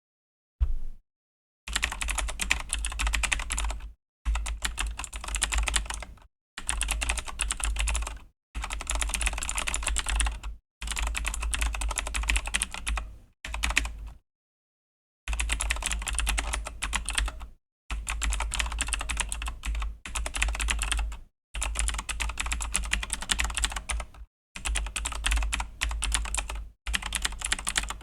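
Fast typing on a Razer BlackWidow V3 mechanical keyboard with clicky Razer Green switches: dense runs of key clicks, each about two seconds long, broken by short pauses.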